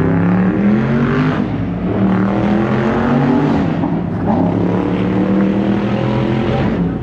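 Car engine running loudly, its pitch drifting up and down a little.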